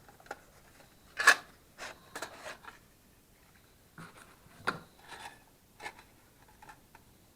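Handling of drill bit packaging and cases: a series of short clicks, taps and rustles, the sharpest click about a second in.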